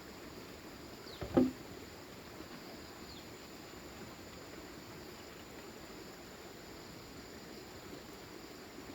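A single short knock about a second and a half in, over a faint steady hiss.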